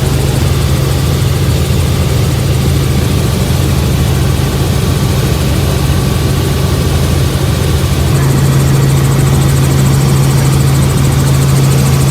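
A vehicle engine running steadily as a loud, low drone, growing slightly louder about eight seconds in.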